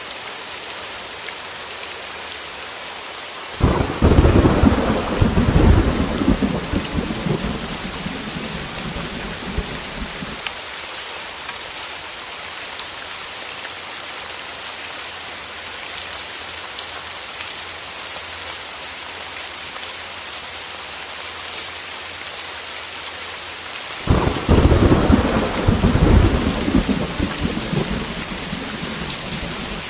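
Steady heavy rain with two rolls of thunder, one a few seconds in and one about six seconds before the end. Each roll starts suddenly, is louder than the rain, and rumbles away over about six seconds.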